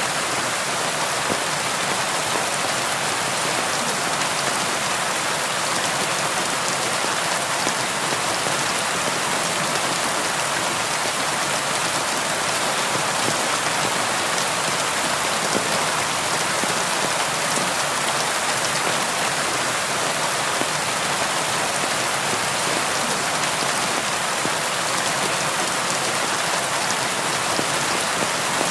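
Steady rain pattering on a window, an even hiss of many fine drops with no thunder.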